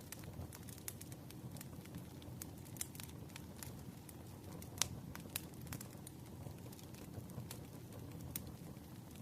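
Crackling fire: irregular sharp pops and snaps, the loudest about five seconds in, over a steady low rumble.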